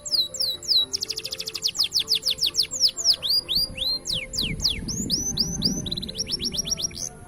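Green canary singing a long, fast song of rapid trills and repeated down-slurred whistles, over background music. The song cuts off suddenly near the end, leaving only the music.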